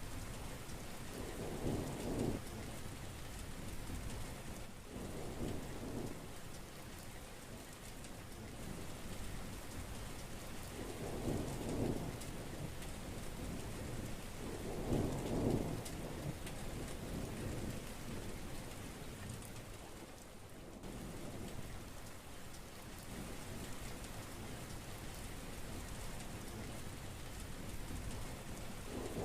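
Heavy rain falling steadily, with a few short rumbles of thunder every few seconds.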